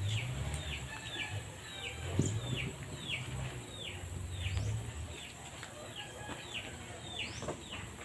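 A small bird calling over and over: a short chirp that slides downward, about two a second.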